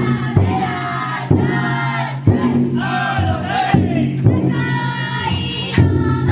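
A crowd of futon daiko carriers chanting together in a drawn-out, sung call. The float's big drum is struck heavily about once a second.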